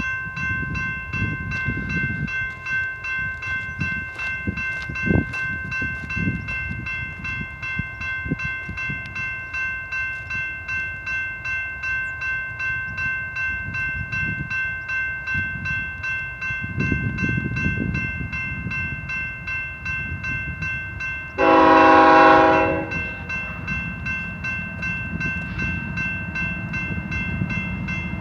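Union Pacific intermodal train approaching behind a GE C45AH-T4 locomotive, its engines rumbling under a bell that rings steadily about twice a second. About 21 seconds in comes one loud horn blast lasting about a second and a half.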